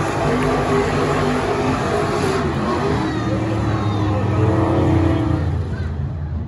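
Late model race cars running at speed on the track, several engine notes heard at once, swelling a little about four and a half seconds in and easing off near the end.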